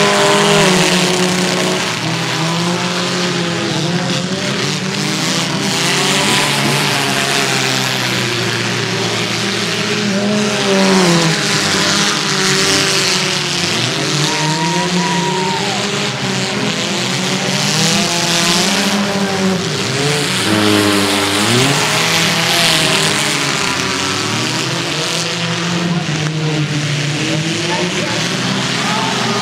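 Several demolition-derby mini cars' engines running at once, each revving up and falling back as the cars accelerate and slow on the dirt track, their pitches rising and falling over one another.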